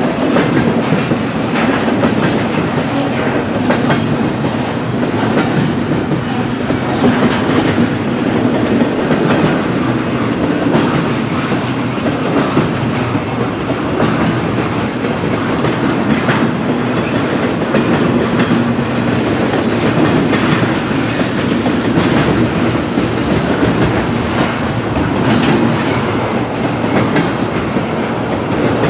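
Freight cars of an intermodal train rolling steadily past, with a continuous rumble of wheels on rail and repeated clicks as the wheels cross rail joints.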